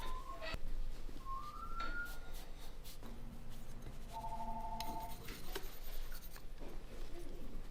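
Ceramic ocarina blown briefly in short, pure whistle-like notes, one sliding up in pitch and a steady held note about four seconds in, among light scraping and small clicks of tools on clay.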